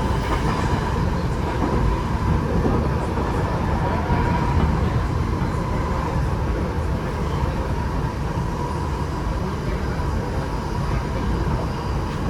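Tokyo Metro 8000 series train running steadily at speed, heard from inside the car: a dense low rumble of wheels on rail with a steady hum riding over it.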